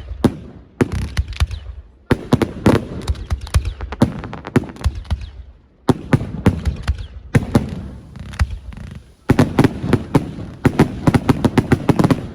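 Fireworks display: rapid salvos of sharp bangs and crackling reports that come in tight clusters one to three seconds long, separated by brief gaps.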